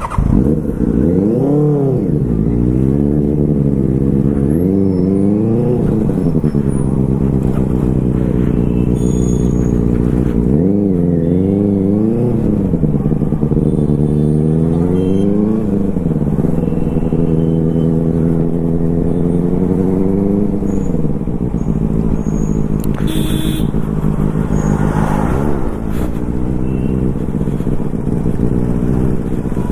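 Superbike engine running under way, its pitch climbing and falling back several times as the throttle is opened and closed.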